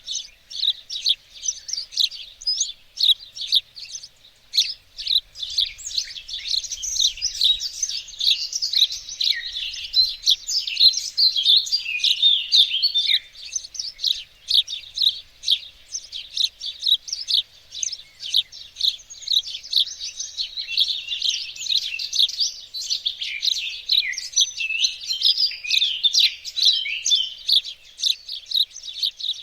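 Small songbirds singing, a dense, unbroken run of overlapping high chirps and trills.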